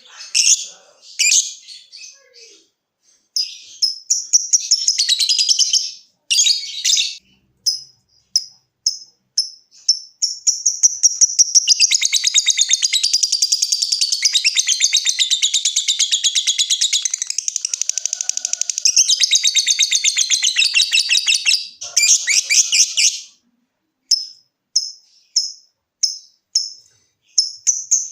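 Lovebird calling: short, sharp, high chirps in scattered bursts, then from about ten seconds in a long unbroken rapid chatter, the 'ngekek' prized by keepers, lasting about twelve seconds. Near the end it drops back to single chirps about once a second.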